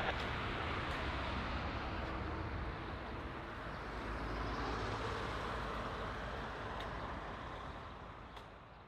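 Boeing 787-9 jet engines heard from a distance at low taxi power after landing: a steady rumble and hiss that fades out near the end.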